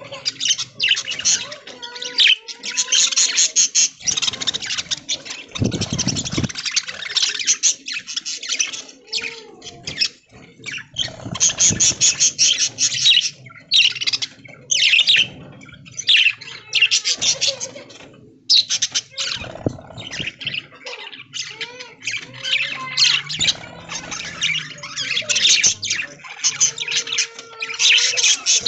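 Flock of budgies chattering, with fast high chirps and squawks coming in waves with short lulls. A brief low thud comes about six seconds in.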